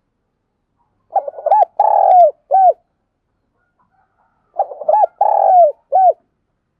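Spotted dove cooing: two identical call phrases about three and a half seconds apart, each a quick stuttering run of notes, a short coo, a long falling coo and a short final coo. It is a decoy dove's territorial call, the kind played to draw in and rouse wild doves.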